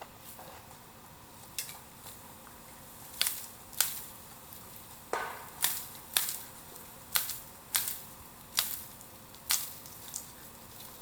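Burning bamboo in a bonfire crackling: about eleven sharp, loud cracks and pops at irregular intervals over a faint steady hiss of the fire.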